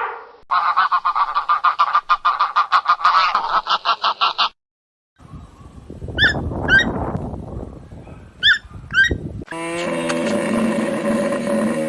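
Waterfowl honking in a rapid run of calls lasting about four seconds, then a brief gap. Next come short sweeping bird calls in two pairs over a noisy background, and near the end a long call held on one steady low pitch.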